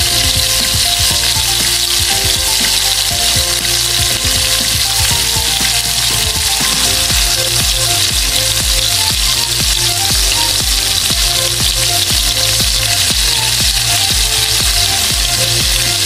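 Turon, saba banana rolls in lumpia wrappers, frying in hot oil in a wok: a loud, steady sizzle as the rolls are laid in one after another. Background music with a beat plays underneath.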